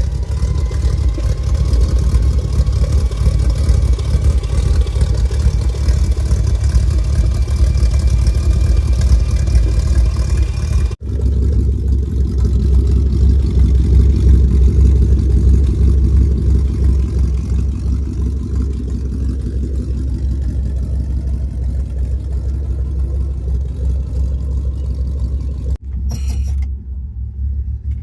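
1964 Buick LeSabre's Wildcat 355 V8 running steadily on a cold start through a small glass-pack muffler with the stock muffler deleted, a deep, loud exhaust rumble. The sound breaks off abruptly twice and picks straight back up.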